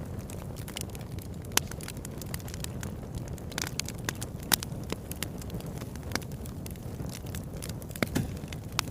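Fireplace fire crackling, with irregular sharp pops over a steady low rumble of the flames; the loudest pops come about a second and a half in, midway, and near the end.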